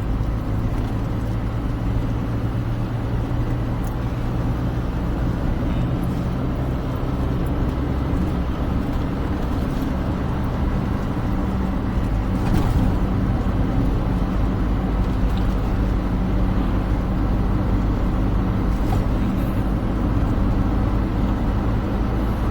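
Smart car driving along: a steady engine drone over road rumble, with one short knock about halfway through.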